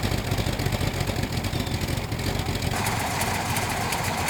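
Car engine idling with a steady low rumble. About two-thirds of the way in the sound changes abruptly, with added hiss and faint crackle over the rumble.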